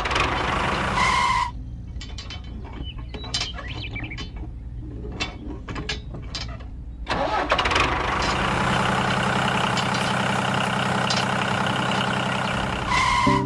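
Machine sound effects: a run of separate clicks and knocks, then a machine running steadily from about seven seconds in.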